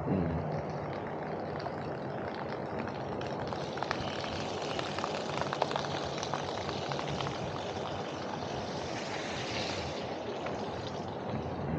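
Wind rush and road noise on a camera carried on a moving bicycle, with a hiss that swells about four seconds in and fades before the end, and a few light clicks.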